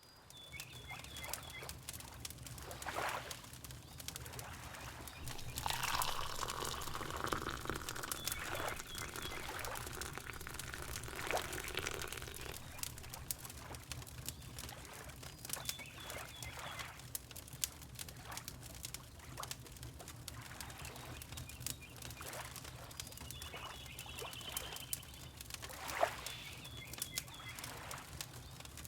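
Wood fire crackling with scattered sharp pops over a steady low rumble, with water lapping in swells and short, high bird chirps every several seconds.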